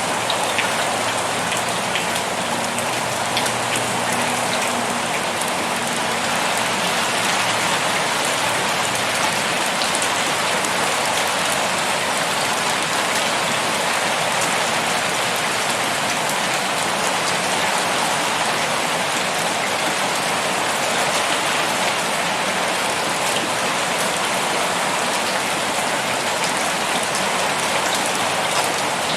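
Heavy rain pouring steadily, a dense hiss of drops striking a surface with fine individual patters.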